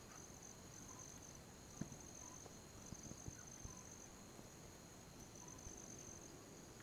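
Crickets chirring: a faint, steady, high-pitched trill with brief breaks, over a few soft faint clicks.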